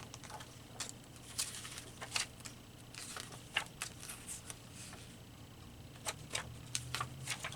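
Paper pictures being handled and laid down on a work table: faint scattered rustles and light taps about once a second, over a faint steady low hum.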